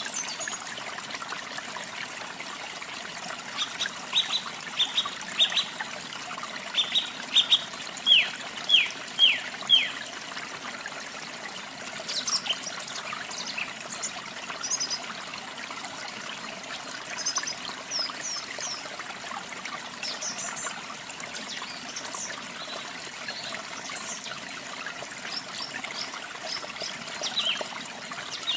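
Water trickling steadily, with birds chirping over it: a loud run of sharp chirps from about 4 to 10 seconds in, the last few sliding downward in pitch, then scattered higher chirps for the rest.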